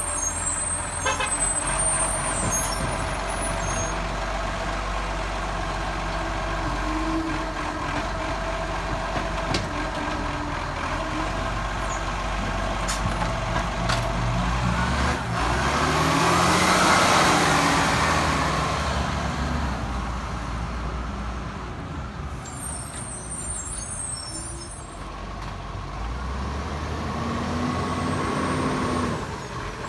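Garbage truck engine running, revving up to a louder peak about halfway through and then settling back down, with a few sharp clicks and knocks along the way.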